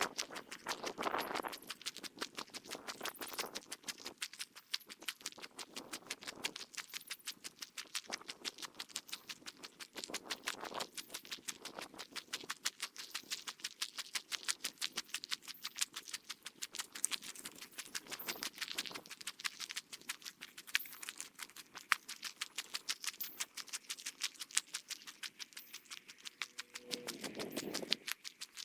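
Footsteps on a forest trail, played back at three times normal speed: a fast, even run of short steps, several a second.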